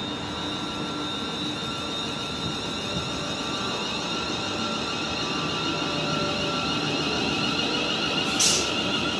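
Electric passenger train running at the platform: a steady whine with several high tones over a noise bed, growing slightly louder, with a brief hiss near the end.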